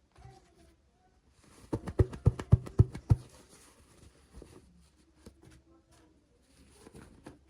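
Hands handling small toys and packaging: a quick run of about six sharp taps, roughly four a second, a couple of seconds in, with faint clicks and rustling around it.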